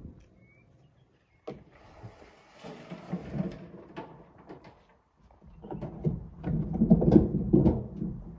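Rocks knocking and clattering as they are handled and loaded into a dump truck. There are single knocks, then a dense, loud run of clatter near the end.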